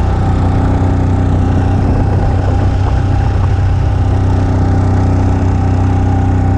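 A motor vehicle's engine running steadily at an even pace, with no change in pitch.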